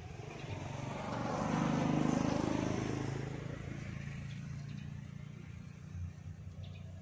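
A motor vehicle driving past, its engine and tyre noise growing to loudest about two seconds in and then fading away.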